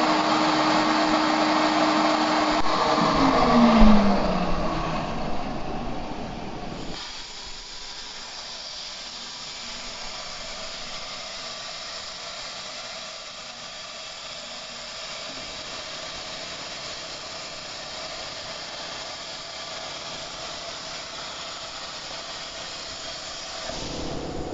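CNC plasma cutting table at work: a machine tone that drops in pitch and stops about three seconds in, then a long, steady hiss typical of the plasma torch cutting metal.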